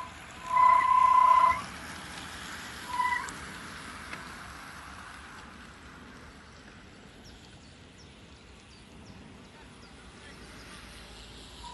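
A loud pitched beep, one about a second long and a short one a couple of seconds later, followed by a low steady outdoor hiss.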